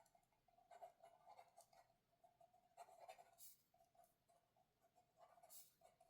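Pen or pencil writing on paper, quiet scratchy strokes in three short bursts with brief pauses between.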